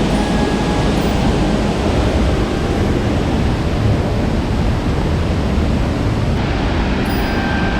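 Loud, steady rush of a waterfall running in full flow after heavy rain.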